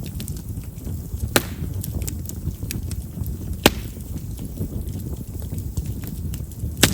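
Campfire of chestnut firewood burning, with a steady low rumble of flame and a scatter of small crackles. Three sharp pops stand out, about one and a half, three and a half and nearly seven seconds in, the last loudest: chestnut's large vessels make it pop readily as it burns.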